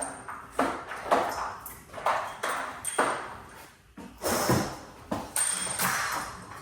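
Repeated metal-on-metal strikes on garage door spring hardware, about two a second and unevenly spaced. Each strike rings briefly.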